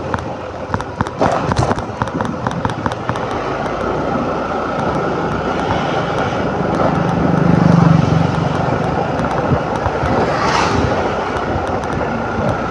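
Motor scooter riding along a road: engine and road noise under wind rushing over the microphone, with rapid crackling of wind buffeting in the first few seconds and a louder low swell about eight seconds in.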